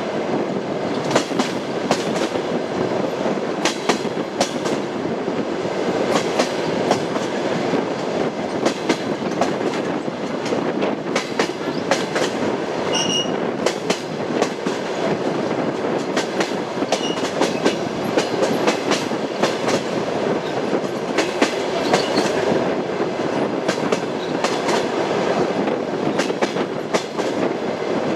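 Passenger train carriage running along the track, with a steady rumble and the frequent clickety-clack of the wheels going over rail joints. A brief high squeak comes about halfway through.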